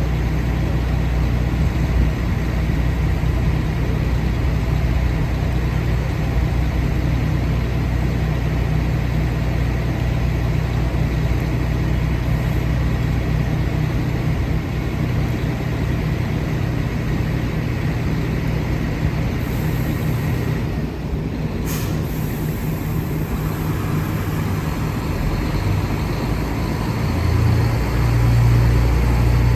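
Steady low mechanical hum of a JR 415 series electric train, with one sharp click about 22 seconds in and the low hum changing pitch near the end.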